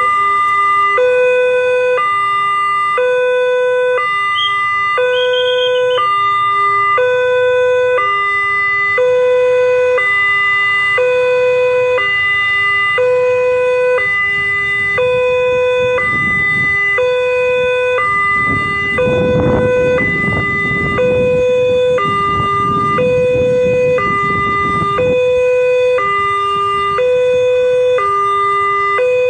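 Railway level-crossing warning alarm sounding continuously: an electronic two-tone signal alternating high and low about once a second. A low rumble swells under it in the middle and fades again.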